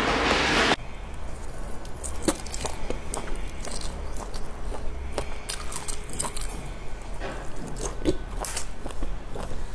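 Close-miked eating: biting into and chewing grilled skewered sausage, with scattered sharp smacks and crunchy clicks. A short loud hiss-like burst sounds at the very start, then cuts off.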